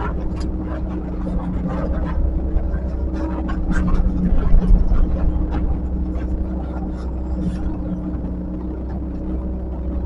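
Diesel engine of a heavy earthmoving machine running steadily, with scattered short knocks and clanks over it.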